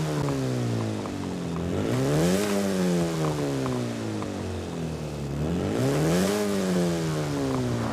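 1953 Morris Minor Series II Traveller's 803 cc A-series four-cylinder engine revved twice, the pitch climbing quickly about two seconds in and again about six seconds in, then sinking slowly back each time.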